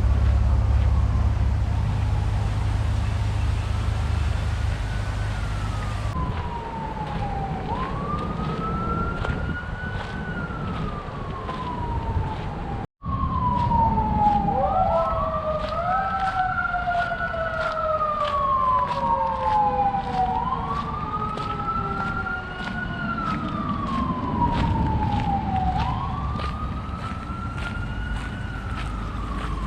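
Emergency vehicle sirens wailing, each cycle rising quickly and then falling slowly over about five seconds. A second siren joins about halfway through, out of step with the first, over a low rumble.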